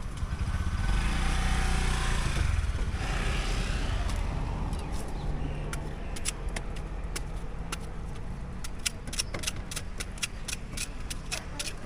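A motor vehicle passes close by: a low engine rumble swells over the first few seconds, then eases off. From about halfway in, a quick irregular run of sharp clicks and taps follows, a few each second.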